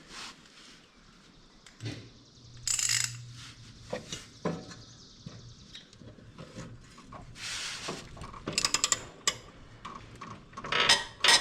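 Metal hand tools clinking and clanking while the blades of a riding mower are worked on, with a brief hum about two seconds in and a quick run of rapid clicks near the end. The loudest clanks come in the last second.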